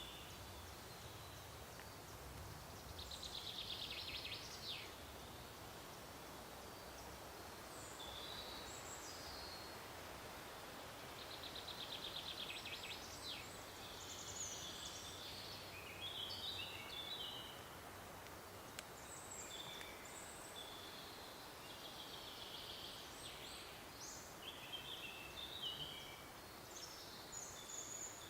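Songbirds singing in a forest: scattered short chirps and phrases, with a fast trill about three seconds in and another about eleven seconds in, over a faint steady hiss.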